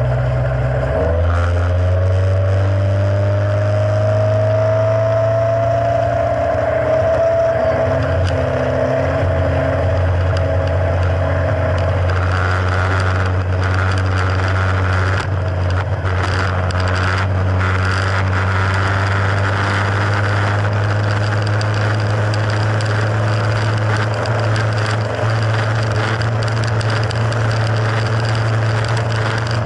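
Mercury F60 four-stroke outboard motor running steadily at a low, even speed, with a faint whine that rises slightly over the first several seconds.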